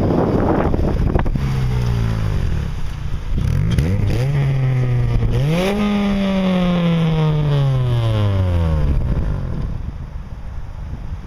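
Honda Civic Si's exhaust, a 70mm custom cat-back with a drilled silencer insert, as the car accelerates: the engine note climbs in steps, then falls away in one long slide and fades out near the end. Wind noise on the microphone in the first second.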